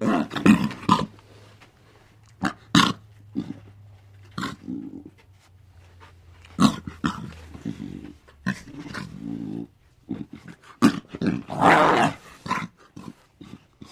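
An animal calling in a series of short, harsh calls at irregular intervals, with one longer, louder call near the end.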